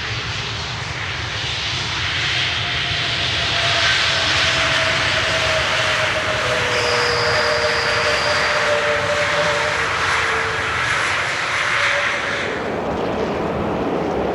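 Jet airliner's engines passing close by: a broad roar that swells and holds, with a few steady engine tones sliding slowly down in pitch as it goes past. The higher part of the noise falls away near the end.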